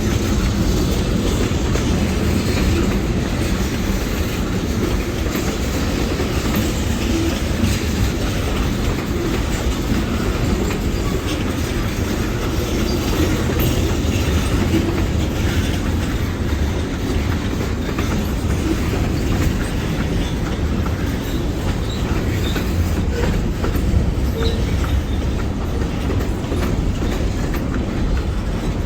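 Freight train rolling past: a steady rumble with wheel clatter from the cars, and now and then a faint wheel squeal.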